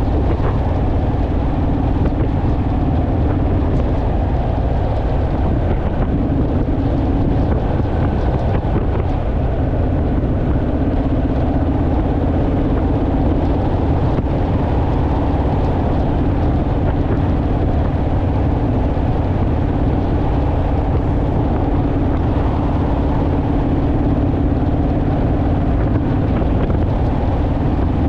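Honda Rebel motorcycle running at a steady cruising speed, its engine rumble mixed with wind and road noise, with no change in speed.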